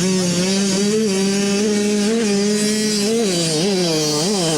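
Motocross bike engine running at steady high revs, then revved up and down three times in quick throttle blips in the last second and a half.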